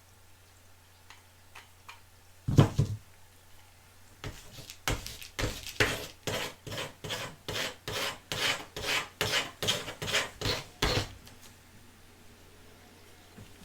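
A single heavy thump, then a steady run of about fifteen short rubbing strokes, roughly two a second, that stops about eleven seconds in.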